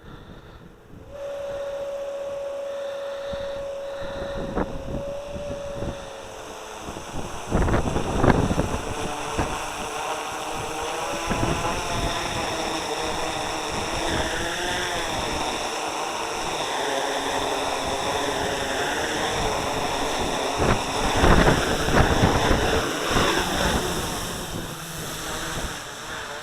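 SK450 quadcopter's brushless motors and propellers whining. About a second in they start at a steady idle pitch after arming. From about eight seconds they spin up and go on, with their pitch wavering up and down as the throttle is worked to hold a hover. Wind gusts buffet the microphone.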